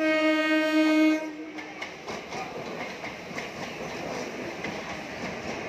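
Indian Railways EMU local train: a single horn blast lasting just over a second, then the train running past on the adjacent track with a steady rumble and wheels clicking over rail joints.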